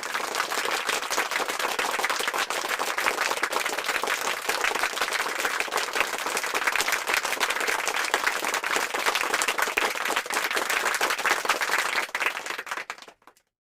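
Heavy rain beating down, a dense steady crackle of countless drops that cuts in abruptly and dies away near the end.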